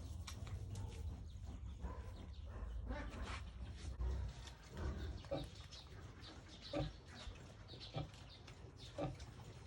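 Pigs grunting: short separate grunts about once a second, over a low rumble.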